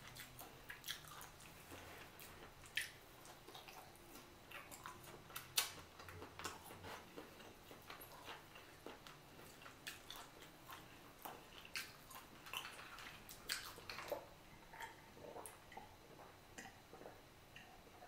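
Close-miked chewing of boiled chicken: faint wet mouth clicks and smacks, scattered and irregular, with a drink from a glass of ice water near the end.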